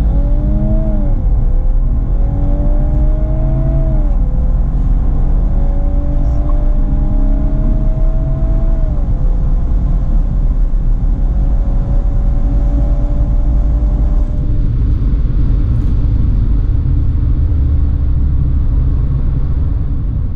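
VW Golf R Mk8's turbocharged 2.0-litre four-cylinder, fitted with an Akrapovic exhaust, accelerating hard through the gears. The engine note climbs and drops back at each quick upshift, four times in the first nine seconds, with each gear lasting longer than the one before. After that it holds a steadier note under heavy road noise, which shifts lower about fourteen seconds in.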